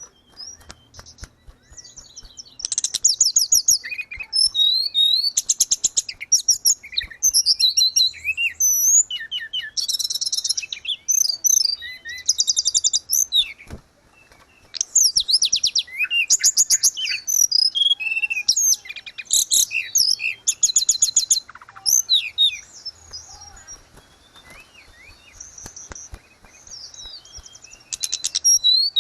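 Tledekan gunung songbird singing: bursts of rapid high trills and chirping phrases, broken by short pauses.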